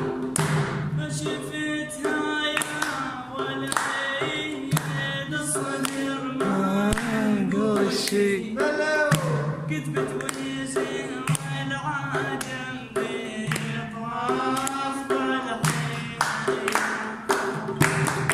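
A male voice sings a mawliya in a long, ornamented Arabic melody over steady instrumental accompaniment, with regular percussion beats throughout.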